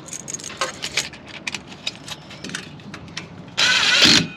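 A run of light clicks and crinkles, like wrap material and hands at work. Near the end comes a loud half-second burst, the vehicle's engine being cranked to test the exhaust-leak repair.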